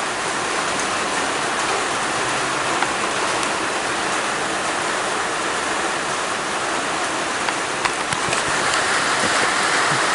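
Steady rain falling, an even hiss with a few sharper drop clicks about eight seconds in.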